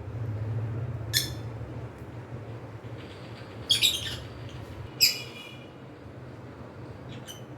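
Pet cockatiels giving short, high chirps, about five in all, with a pair just before four seconds in and the loudest about five seconds in. A steady low hum runs underneath.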